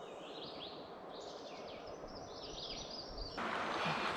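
Songbirds singing repeated sweeping phrases over a steady outdoor hiss. Near the end a louder steady rush cuts in abruptly.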